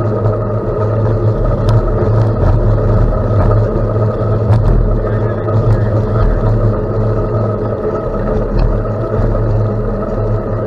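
Steady riding noise from a gravel bike ride: a continuous low hum with wind and tyre noise and a few sharp ticks scattered through.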